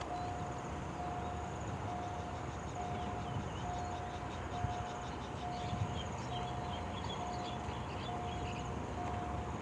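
Railway level-crossing warning alarm sounding a steady electronic tone in short repeated beeps, about one and a half a second, warning that a train is approaching. High insect chirping runs underneath.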